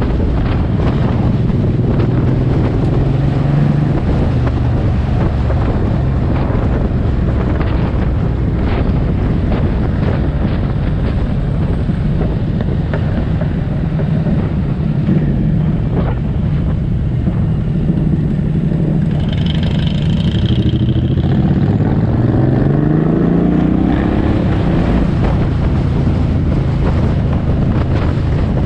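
Suzuki M109R's big V-twin engine running under way, with wind noise buffeting the microphone. About three-quarters of the way through, the engine pitch climbs steadily as the bike accelerates.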